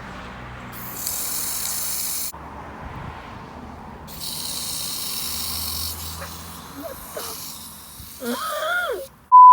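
Garden hose spraying water in two hissing spells of a second or two each, the first starting about a second in and the second about four seconds in. A short, steady high beep comes right at the end.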